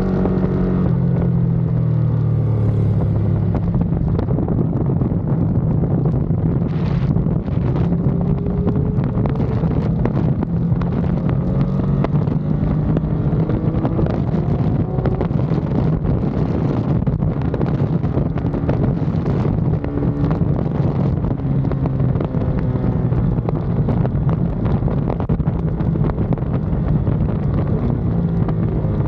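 Ducati Panigale V2's L-twin engine running hard on track, its pitch falling and rising again and again as the revs change through braking, gear changes and acceleration, under a heavy rush of wind on the microphone.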